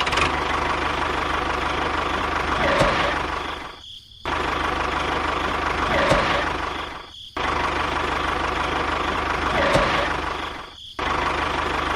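Tractor engine running steadily, broken by short dropouts about every three and a half seconds, so that it comes in repeated stretches.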